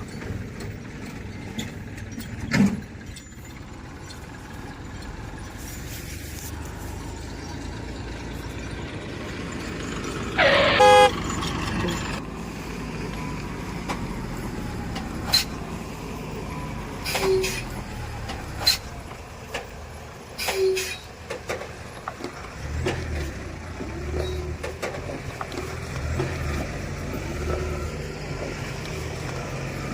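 A vehicle engine running steadily, with scattered clicks and knocks, and a loud horn honk lasting about a second about ten seconds in.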